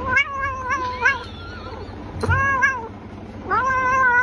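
A cat meowing: a quick run of short chirping calls, then two longer meows, the last one drawn out.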